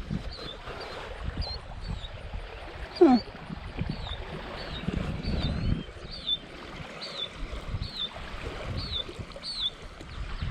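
A small bird calling over and over with short, high chirps, with one loud falling squeal about three seconds in. Wind rumbles underneath.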